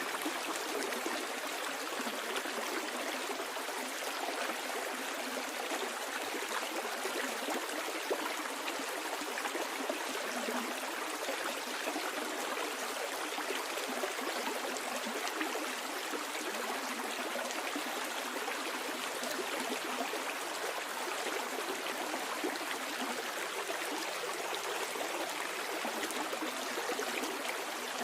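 Flowing stream water, a steady rushing and gurgling with fine trickling splashes.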